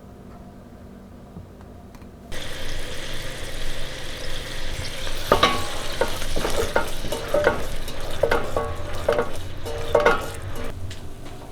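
Food frying in a pan: the sizzle starts suddenly a couple of seconds in. About halfway through comes a series of repeated scraping strokes as a utensil stirs it.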